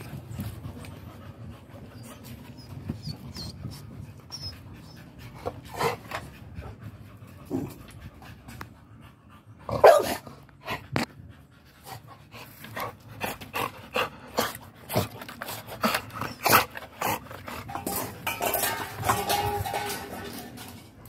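Dog panting, with short sharp noises now and then, the loudest about halfway through and more of them close together in the last third.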